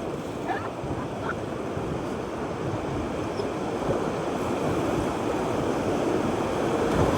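Whitewater rapids rushing around a raft as it runs a drop: a steady churning water noise that grows louder toward the end.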